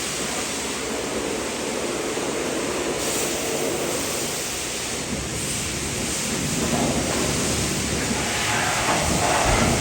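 Pressure-washer spray of water hitting the truck's body, a steady hiss that grows a little louder and fuller near the end.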